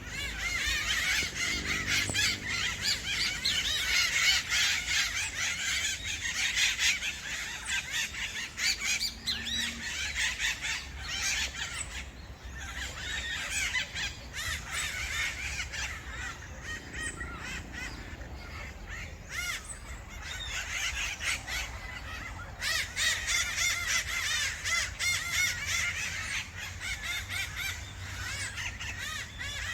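A flock of birds calling together in dense, overlapping harsh squawks and chatter, thinning out through the middle and building up again near the end.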